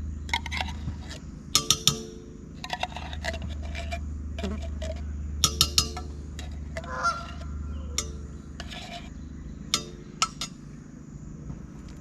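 Two short runs of three honking calls, about four seconds apart, among sharp clinks and scrapes of utensils on cookware, over a steady low hum.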